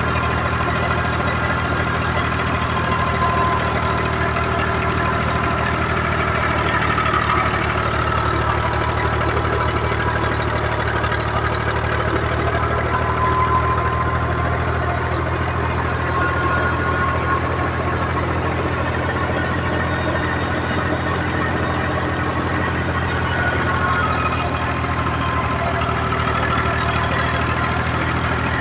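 Al-Ghazi tractor's diesel engine idling steadily, with an even low running note.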